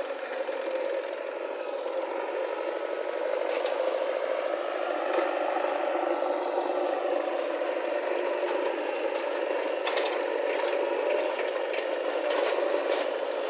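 JCB 3DX backhoe loader's diesel engine running under load, revving up a little around the middle, with metal rattling and a few clanks from the working bucket and arm.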